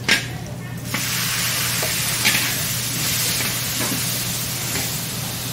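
Diced tomatoes going into a hot wok with frying garlic: a loud, steady sizzle starts suddenly about a second in. A metal wok spatula scrapes the pan at the start and again partway through.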